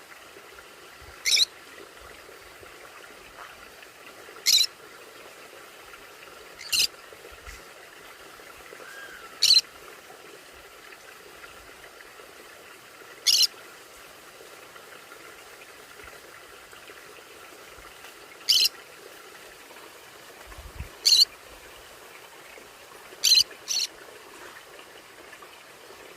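Conure parrot giving short, high-pitched single calls every few seconds, nine in all, the last two in quick succession.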